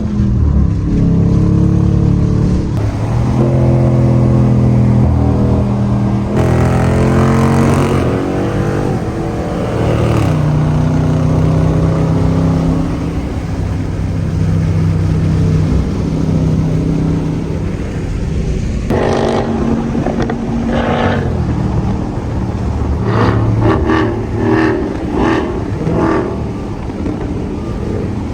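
Muscle car's engine accelerating hard, its pitch climbing and dropping back several times in the first dozen seconds as it shifts up through the gears, then running on with shorter revs.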